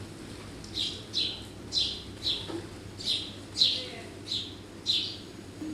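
Garden bird chirping repeatedly: short, high notes that sweep downward, about nine of them, roughly every half second.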